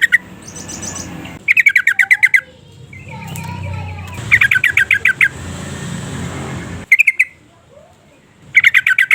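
Yellow-vented bulbul giving its rapid, bubbling chatter: quick runs of about ten repeated notes lasting about a second each, coming every two to three seconds, with one shorter run.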